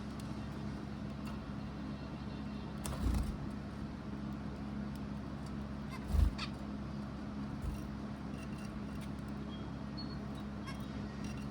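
A steady low hum with two dull thumps, about three seconds apart, and a few faint, short bird calls.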